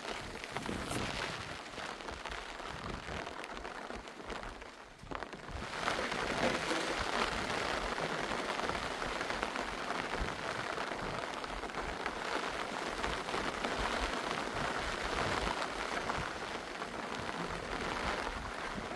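Steady rain falling, an even hiss that drops away briefly about five seconds in and comes back louder.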